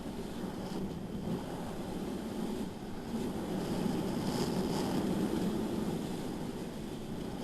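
Wind rushing over the microphone of a camera on a moving motorcycle, a steady roar that swells a few seconds in.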